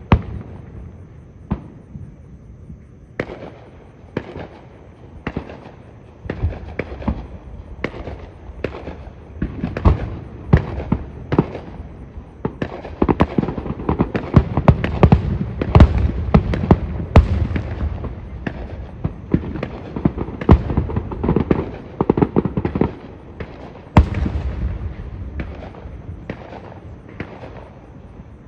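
Aerial fireworks display: a fast series of booming shell bursts with crackling, sparse at first, building to a dense barrage in the middle, then thinning out near the end.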